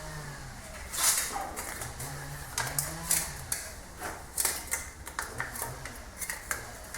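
Irregular metal clicks and knocks as a sealant-coated cover is fitted onto a Toyota 2SZ engine block.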